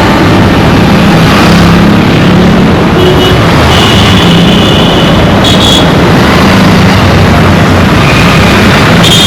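Dense Indian street traffic: car and motorcycle engines running in a continuous loud wash. Short high-pitched horn toots cut through about three and a half seconds in, briefly around five and a half seconds, and again near the end.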